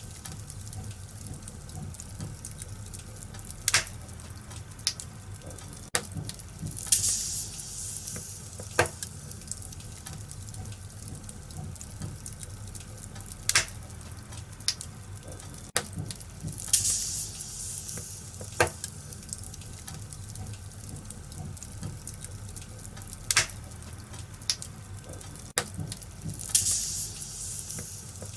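Wood fire crackling in a fireplace, with sharp pops at irregular intervals over a low steady rumble. Three brief hissing flares come about ten seconds apart.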